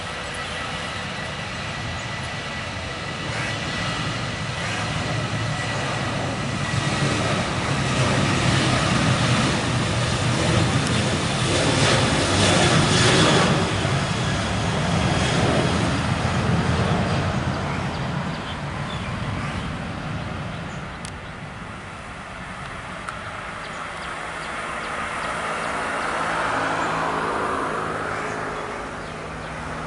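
Boeing 737 jet engines passing by: a broad roar with a thin whine in it that swells to its loudest about twelve seconds in and then fades, with a smaller rise near the end.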